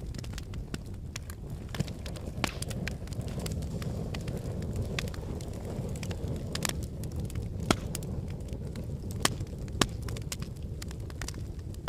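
Wood logs burning in a fireplace: a steady low rumble of flames with frequent small crackles and a few louder pops, the sharpest about two-thirds of the way through.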